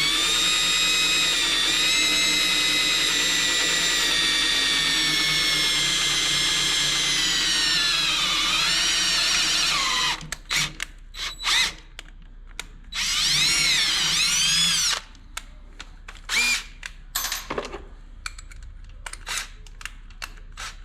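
Power drill with a small pilot bit boring into a motorcycle's exhaust head pipe: a steady high whine for about ten seconds that sags in pitch before stopping. After a few short clicks, a second brief run of the drill, its pitch rising and falling, then more short knocks.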